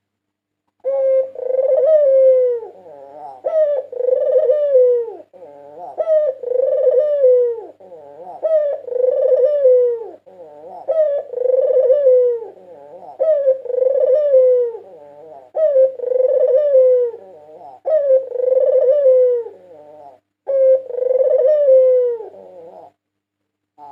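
White ringneck dove (puter putih) cooing: about ten near-identical falling coos repeated roughly every two seconds, with a faint steady hum beneath them.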